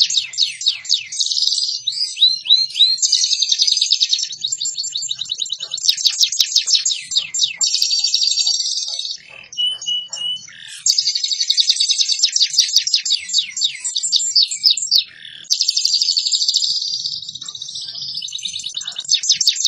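Domestic canary singing a fast, tight song of rapid trills and rolls in long phrases, with short breaks about nine seconds in and again around fifteen seconds. It is a fast-trilling tutor song of the kind played to teach other canaries.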